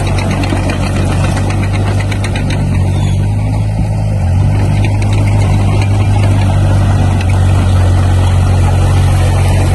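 Diesel engine of heavy construction equipment running steadily with a low, even drone.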